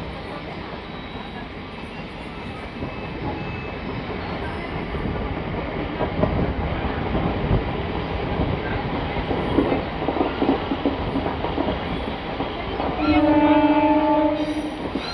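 An express train running on the rails, a steady rumble with irregular wheel clatter. About thirteen seconds in, a train horn gives one steady blast of about a second and a half.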